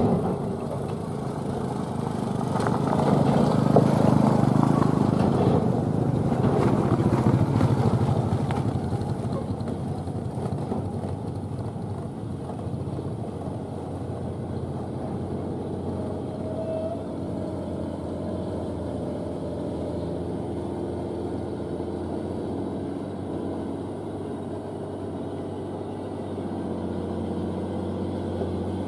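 Old truck's diesel engine running hard under load, loudest about three to eight seconds in, then settling to a steady drone.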